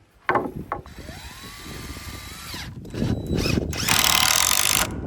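Handheld power tool: a knock, then its motor whines up to speed, holds steady and winds down, followed by a louder, harsh high-pitched stretch of work that cuts off suddenly near the end.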